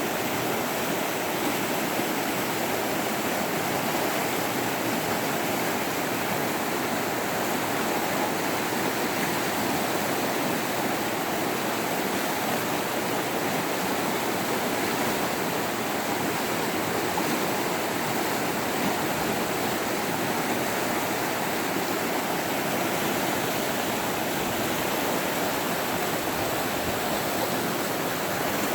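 Running water in a steady, unbroken rush.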